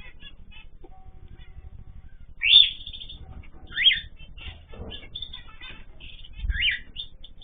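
Pet cage birds chirping continually, with three louder sweeping calls standing out, one of which falls steeply in pitch.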